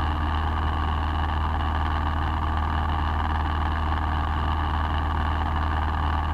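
Steady drone of a single-engine light aircraft's piston engine and propeller in cruise, heard inside the cockpit.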